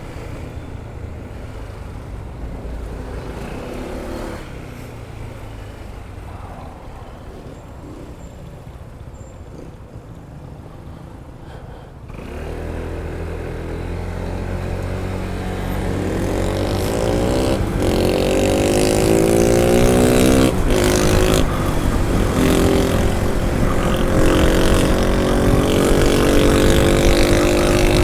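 Honda ADV 160 scooter's single-cylinder engine heard while riding: it runs low and even for about twelve seconds, then the throttle opens and the engine note climbs over several seconds as it accelerates, settling into a steady higher cruise with wind noise.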